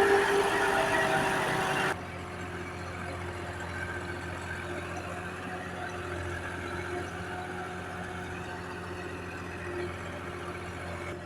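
Tractor engine running under load, its pitch rising slightly, then cut off abruptly about two seconds in by a quieter, steady engine sound.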